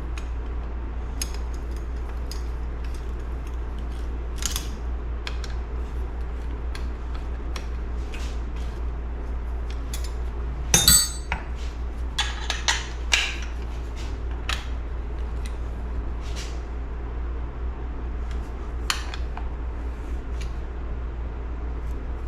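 Metal tools and small engine parts clinking and tapping as they are handled on a workbench, with scattered sharp clicks, the loudest cluster about halfway through, over a steady low hum.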